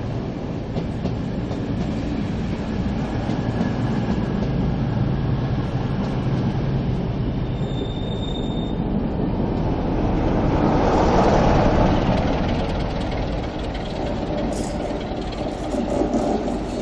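Passenger coaches of a departing train rolling slowly past with a steady rumble. The sound swells about ten seconds in as the diesel locomotive coupled at the rear goes by, then eases as the train moves away.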